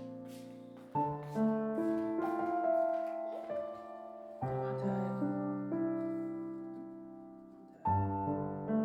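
Slow, soft piano music: chords struck about every three and a half seconds, each left to ring and fade out.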